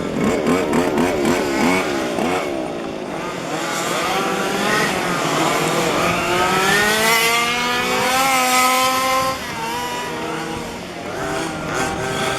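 Several 1:5 scale petrol RC cars' small two-stroke engines racing together, their pitches wavering up and down as they are throttled on and off. One engine climbs steadily in pitch for several seconds and then drops back about nine seconds in.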